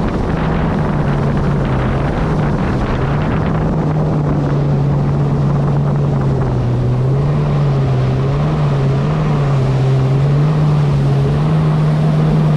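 2023 Kawasaki SX-R 160 stand-up jet ski's 1500cc engine running under way, a steady low note with small rises and dips in pitch, over rushing wind on the microphone and water noise.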